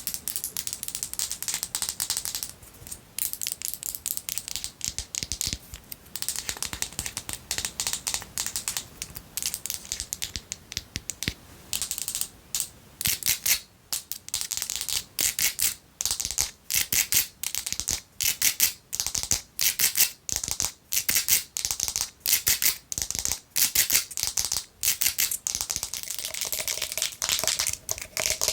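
Long fingernails scratching and tapping fast on a perfume bottle. The first half is mostly dense scratching; from about halfway through, sharp taps come in quick repeated runs.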